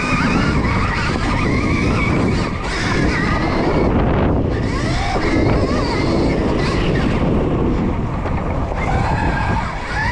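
Stark Varg electric dirt bike ridden hard on a lap: a high motor whine rising and falling with the throttle over tyre and wind noise, easing off briefly about four seconds in.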